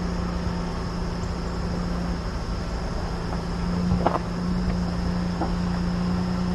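Nissan pickup truck driving: a steady engine hum and road rumble, with one short knock about four seconds in.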